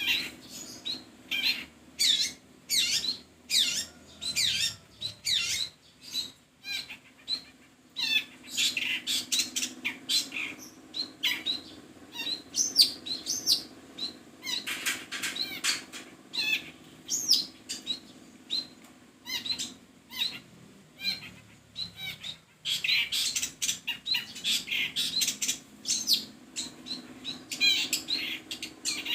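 Long-tailed shrike (cendet) calling: harsh, noisy chattering calls repeated in bouts, one to two a second, over a faint steady low hum.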